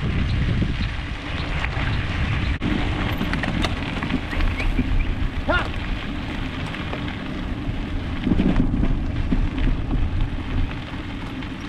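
Steady wind buffeting the microphone while riding an electric bike, with a low rumble and crackle from the tyres rolling along the trail. A short bending call is heard about halfway through.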